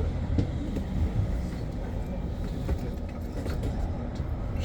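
Interior noise of a BYD BD11 battery-electric double-decker bus: a steady low rumble with light ticking rattles from the cabin.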